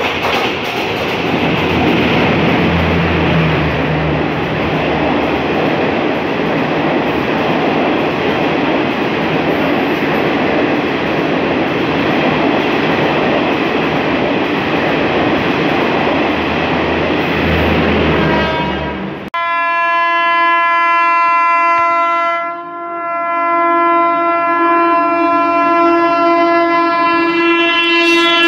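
Express train hauled by a WAP-5 electric locomotive passing at speed: loud, steady rolling noise of wheels and coaches. About two-thirds of the way through it changes abruptly to a second express, hauled by a WAG-7 electric locomotive, sounding a long continuous horn as it approaches, with one brief dip, the horn's pitch falling at the very end as the locomotive passes.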